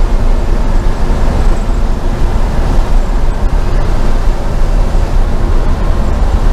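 LS-swapped Chevy C10 pickup's V8 engine and road noise while driving: a loud, steady low rumble with no change in pitch.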